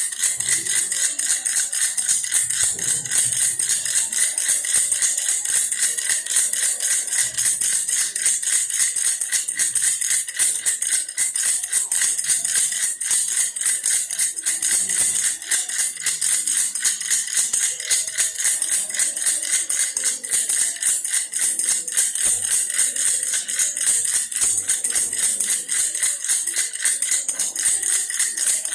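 A baby's toy bear rattle shaken steadily and fast, giving a continuous bright, hissy rattle with no pauses.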